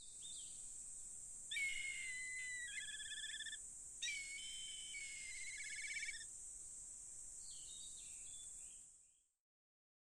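Forest ambience: a songbird singing twice, each phrase of clear whistled notes running into a fast trill, over a steady high-pitched insect drone. The sound fades out near the end.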